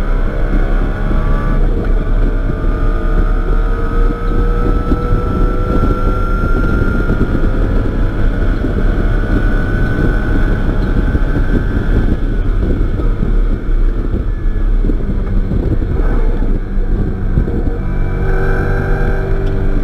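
BMW E90 M3's 4.0-litre V8 at full throttle, heard from inside the cabin, its pitch rising through the gears with an upshift about two seconds in. About twelve seconds in it goes off throttle under hard braking, leaving wind and tyre rumble, and it pulls again near the end.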